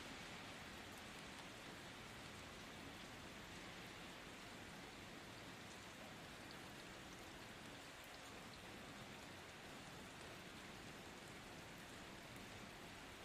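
Steady, faint rain falling, an even hiss with a few light drop ticks scattered through it.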